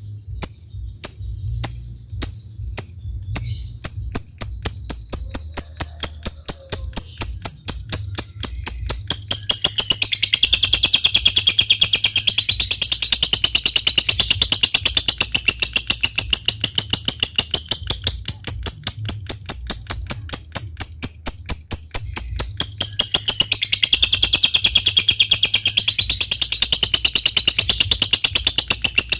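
Lovebird calling: sharp high ticks ('ngetik') about a second apart that speed up, then run about ten seconds in into a long, rapid high chattering trill ('ngekek panjang'). The trill eases briefly near the end, then starts again.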